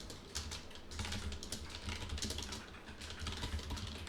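Typing on a computer keyboard: a rapid, uneven run of key clicks.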